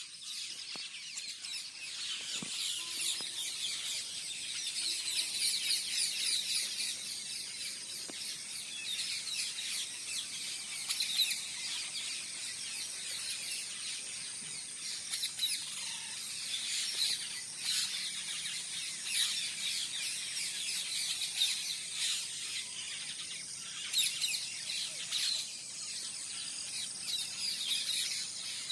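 Parrots calling, with many short, high chirping calls overlapping without a break.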